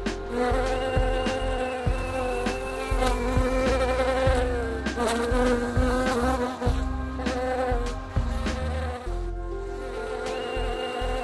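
Buzzing like a flying insect, a dense wavering drone that runs on with a few brief dips, over low notes that change in steps.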